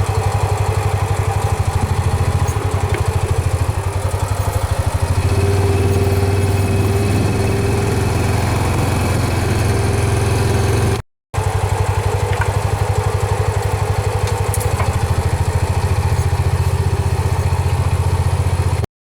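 Motor vehicle engine running steadily close by, a loud low drone with a fast even pulse; a steady tone joins it about five seconds in. The sound drops out to silence for a moment twice.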